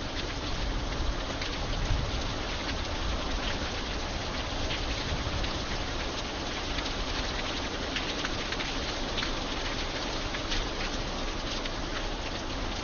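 Steady rain falling, a dense hiss with many individual drops ticking sharply on a hard surface. A faint low rumble swells briefly about two seconds in.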